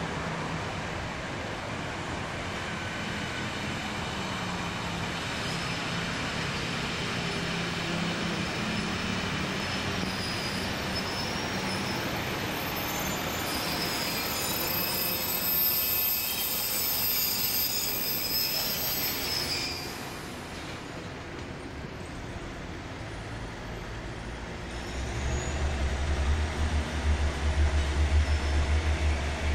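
Train running on rails with a steady rumble, then a high squealing whine from the wheels or motors that cuts off suddenly about two-thirds of the way in. A heavy low pulsing rumble rises near the end.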